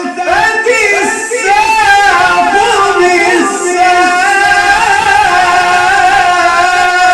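A Quran reciter's voice in melodic tajwid recitation in maqam Ajam, drawing out a long ornamented phrase: quick melismatic turns at first, then one long held, gently wavering note.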